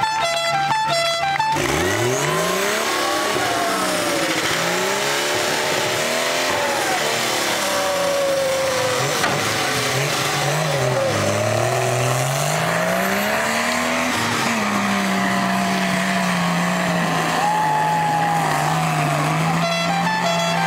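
A demolition derby car's engine revving hard, starting about a second and a half in. Its pitch climbs and falls again and again, then holds steadier for the last several seconds.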